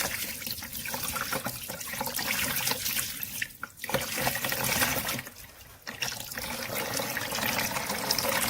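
Tap water running into a sink as a robot vacuum's removable parts are rinsed under it, the flow splashing over them. The water noise drops away briefly twice, about three and a half seconds in and again for about a second around five seconds in.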